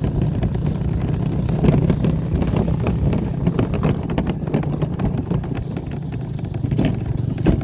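Dirt bike engine running steadily at low throttle while towing a loaded cart, with many small clicks and rattles over the low drone.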